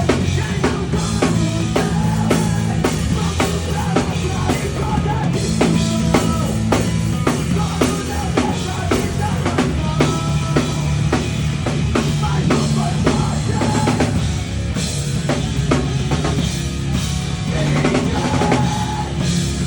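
Drum kit played along to a song, with regular kick and snare hits over the track's sustained bass and other instruments.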